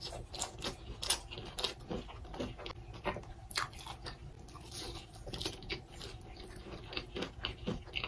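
Close-miked eating of a Hot Cheetos-crusted crab leg: irregular crunchy clicks and wet chewing, several a second.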